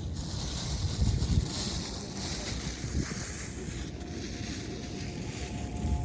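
Outdoor ambience: wind buffeting the microphone with an uneven low rumble and a steady hiss. A faint steady tone enters about four seconds in.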